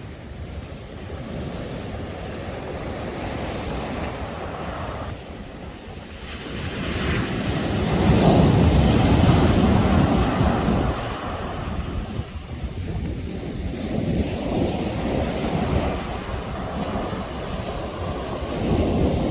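Sea waves surging and breaking on the shore, with one large wave loudest about eight to eleven seconds in, and wind buffeting the microphone.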